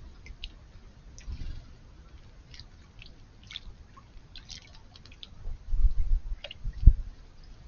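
House sparrows bathing in shallow pond water: scattered small splashes and flicks of water. There are a few dull low bumps, the loudest near the end.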